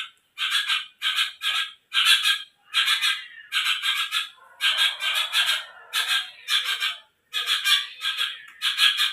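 White-rumped shama (murai batu) singing hard, its song a rapid train of short, harsh chirps in bursts of about two a second, dominated by mimicked sparrow calls.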